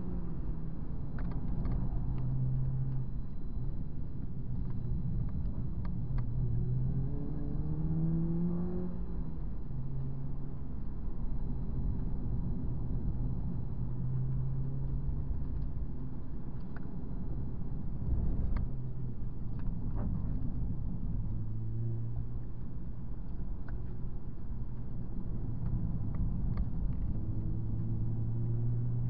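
Honda Civic Type R FD2's 2.0-litre four-cylinder VTEC engine heard from inside the cabin, its pitch falling and climbing as the car brakes and accelerates, over a steady rumble of road and tyre noise. A brief knock about 18 seconds in.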